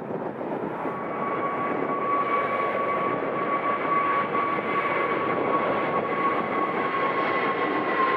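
Airliner engines running with a steady rushing noise that slowly grows louder, with a high whine that comes in about a second in and drops slightly in pitch near the end.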